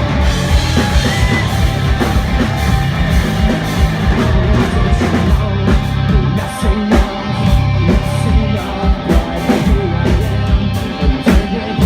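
Live rock band playing an instrumental passage of a song: distorted electric guitars, bass and a drum kit pounding steadily, with no vocals.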